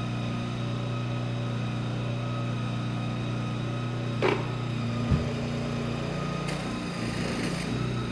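Nissan N41 mini digger's engine running steadily, with a sharp knock about four seconds in and a thud a second later, after which the engine note shifts slightly.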